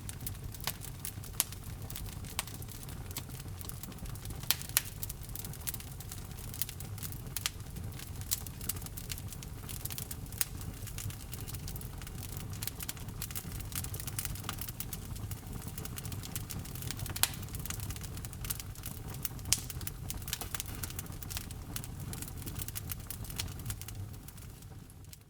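Wood fire crackling in a fireplace: irregular sharp pops and snaps over a steady low rumble of the flames, fading out near the end.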